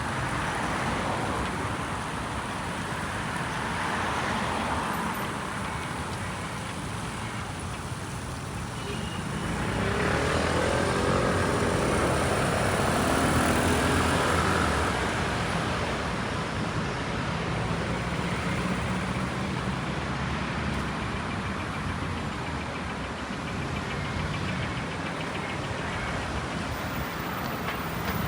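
City street traffic: cars passing along the road, with one louder vehicle going by about ten seconds in.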